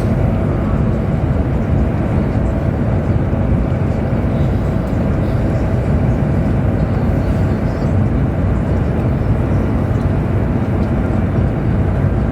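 Steady low rumble and hiss of a Chinese high-speed train running at speed, heard from inside the passenger car.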